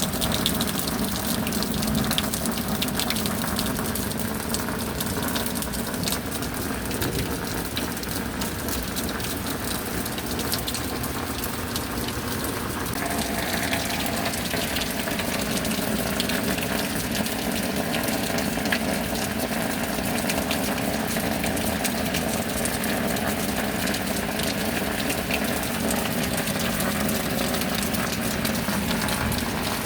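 Steady rain with water running and splashing. Its tone shifts slightly about 13 seconds in.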